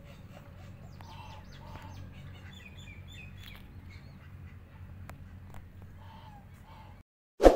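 Birds calling and chirping, short scattered calls over a steady low background hum. Near the end the sound cuts out, then a single loud sudden thump.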